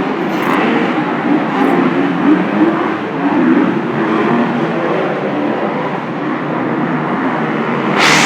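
Motocross motorcycle engines running at race pace: a loud, dense wash of engine noise whose pitch wavers, swelling louder near the end.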